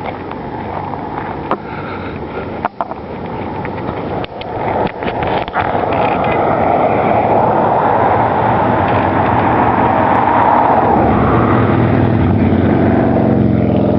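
A road vehicle driving past, tyre and engine noise building from about five seconds in and loudest near the middle, with a low engine hum near the end.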